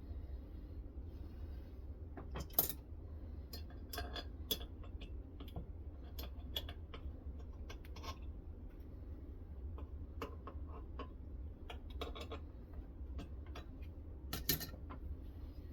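Irregular light clicks and taps of hard metal and plastic as a guided knife-sharpening system is handled and worked, two sharper knocks about two and a half seconds in and near the end, over a steady low hum.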